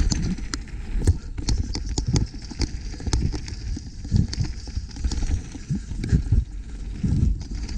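Mountain bike clattering downhill over rough trail, with quick irregular clicks and knocks from the bike and a steady low rumble of wind on the microphone.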